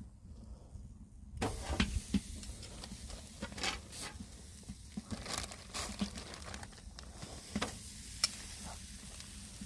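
Marinated chicken sizzling on a grill over a campfire: a steady hiss that starts about a second and a half in, with scattered sharp crackles and clicks.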